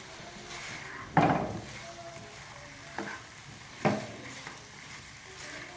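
Chicken sizzling in ghee with green chillies in a kadhai while it is stir-fried (bhuna) with a spoon. The spoon scrapes against the pan three times, loudest about a second in.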